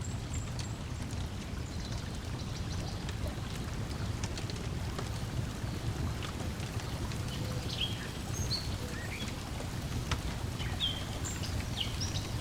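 Lakeside ambience: water lapping as a steady low wash, a wood fire crackling with small sharp pops, and birds chirping now and then, more often in the second half.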